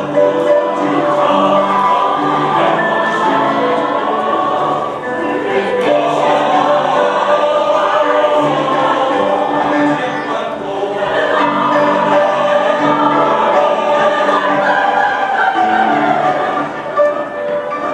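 Choir singing with accompaniment, in long held notes that shift from phrase to phrase.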